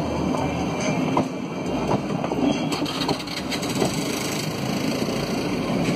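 Blue Indian Railways passenger coaches rolling past at close range: a steady rumble of steel wheels on the rails, with a few faint knocks.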